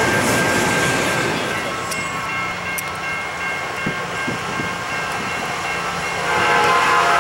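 Double-stack intermodal well cars rolling past on the rails, the rolling noise easing off a second or two in as the end of the train goes by. Near the end, a track maintenance machine's engine grows louder as it approaches on the same track.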